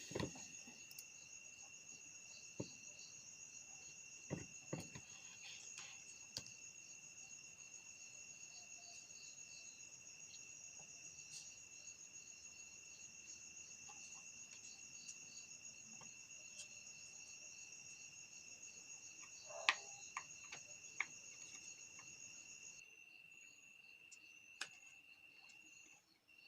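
Faint, steady high-pitched chirring of crickets, with a few scattered clicks and knocks of small parts being handled, the loudest knock about twenty seconds in.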